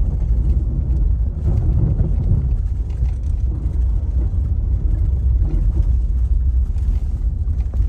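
Steady low rumble of a car being driven: engine and tyre noise heard from inside the cabin.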